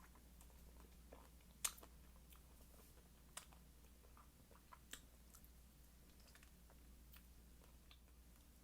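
Faint chewing of kiwi with whipped cream, soft wet mouth sounds with scattered clicks, a few sharper ones at about two, three and a half and five seconds in.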